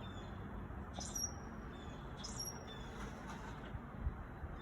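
Birds chirping faintly, with short high chirps about a second in and again a little later, over a low steady background hum.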